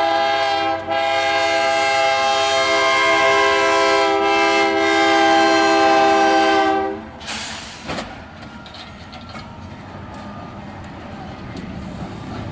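Locomotive air horn sounding one long blast, with a brief break about a second in, and stopping about seven seconds in. After that comes the quieter rumble of the passing train, with a sharp knock about eight seconds in.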